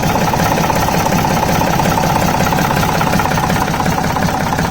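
Waldon 5000 loader's air-cooled three-cylinder Deutz diesel engine running steadily just after a cold start in freezing weather, an even, fast firing rhythm.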